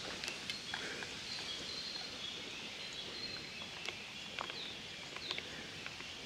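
Faint songbirds singing in woodland: short, thin, high whistled notes, a few sliding downward, over a quiet outdoor background with scattered light clicks.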